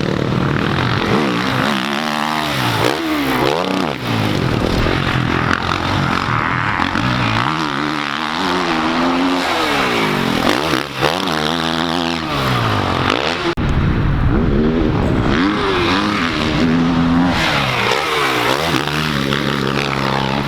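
Several dirt bike engines revving up and down, their pitch repeatedly climbing and dropping as the bikes ride and shift around a motocross track.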